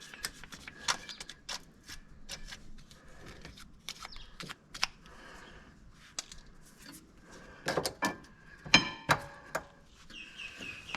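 Scattered light clicks and taps of brake pads and caliper hardware being handled and fitted on a rear brake. A cluster of sharper knocks comes about eight to nine seconds in.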